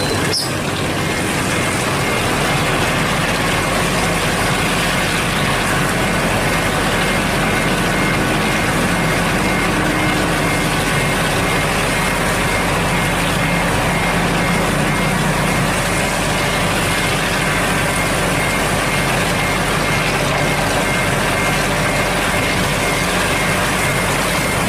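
Heavy diesel engine of a Hino cement mixer truck running steadily with a low rumble, with a faint, rapidly repeating high beep over it.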